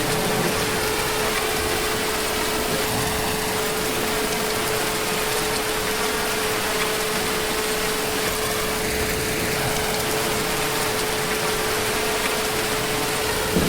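Steady heavy rain falling, an even hiss without a break, with a constant hum at one pitch running under it. A single brief click comes near the end.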